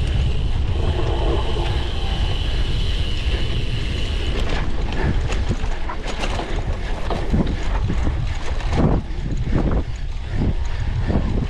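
Cyclocross bike being ridden over rough ground: wind rushing over the camera microphone with tyre and drivetrain noise, and a steady high buzz for the first four seconds. After that come many short knocks and rattles from the bike jolting over bumps.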